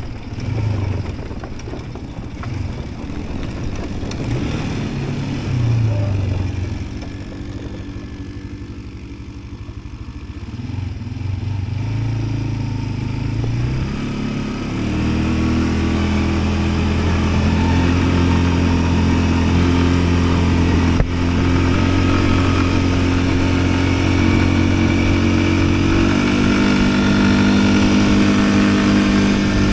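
Yuki Tract 200 ATV engine running, its revs rising and falling through the first half, then holding steadier and louder from about halfway through. A single sharp click comes about two-thirds of the way in.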